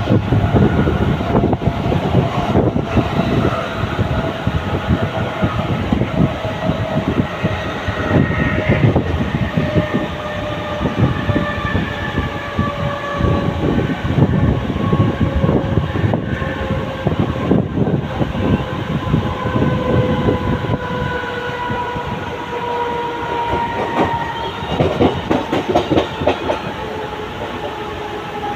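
Mumbai suburban local train running on the rails, its wheels clattering over the track joints, with a whine that falls slowly in pitch all the way through.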